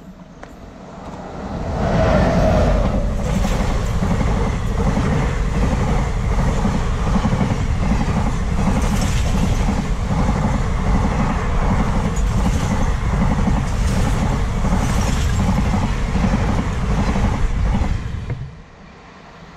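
Express passenger train hauled by a WAP-7 electric locomotive passing at speed: a loud rumble of wheels on rail with a rhythmic clatter over the rail joints. It swells over the first two seconds as the locomotive arrives and drops away near the end as the last coach goes by.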